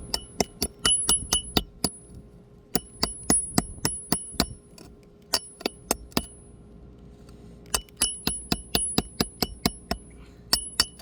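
Hammer striking a steel flat bar in quick runs of sharp metallic taps, each ringing with a high tone, in four or five bursts with short pauses between. The bar is being driven under a roof shingle to get at the nails holding it.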